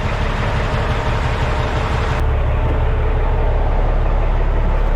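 Truck engine running with a steady low rumble and a faint steady hum. About two seconds in, the hiss above it drops away abruptly while the rumble carries on.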